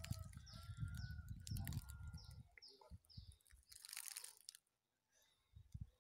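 A small bird calling with a run of about six short, falling chirps in the first half, over a low rumble on the microphone. About four seconds in, a brief crunch of footsteps in dry leaf litter.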